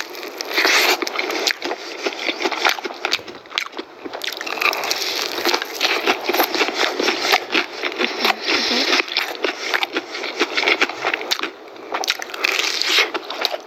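Close-up crunching and chewing of crispy fried chicken: many sharp crackling bites of breaded coating, dense and irregular throughout.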